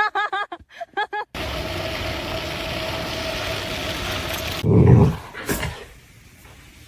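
A dog giving a quick run of high yips, about five a second, which cuts off suddenly. A steady mechanical hum follows, then a single loud low thud.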